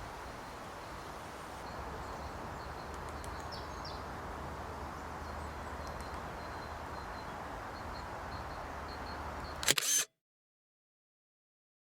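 Steady outdoor background noise with faint, high bird chirps, broken near the end by a sudden loud clatter; then the sound cuts out to dead silence.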